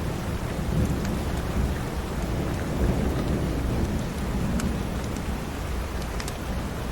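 Steady rain with a continuous deep low rumble, and sparse sharp crackles from a wood fire in a fireplace.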